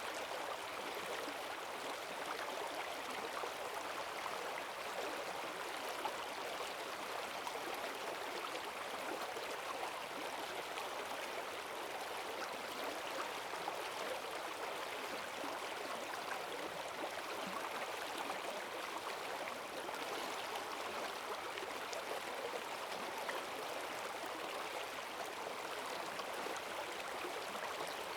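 A forest stream running high and fast after heavy rain: a steady rush of water over stones, with fine splashing and gurgling throughout.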